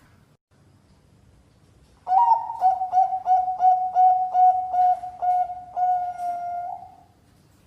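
Zebra dove (perkutut bangkok) singing. After about two seconds of quiet it gives a quick run of about ten short, clipped coos on one pitch, ending in a longer held coo.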